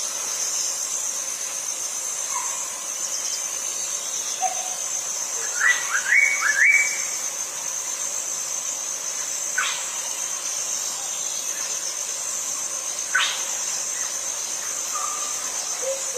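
Small songbird calling: single sharp falling notes every few seconds, and a quick run of three or four rising chirps about six seconds in. Underneath runs a steady high-pitched drone of insects.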